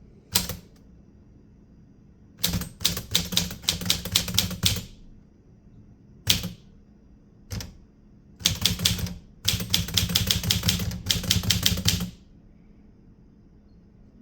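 Typewriter keys striking in quick runs: a single stroke at the start, a run of about two seconds, two lone strokes, then a longer run of about three and a half seconds that stops a couple of seconds before the end.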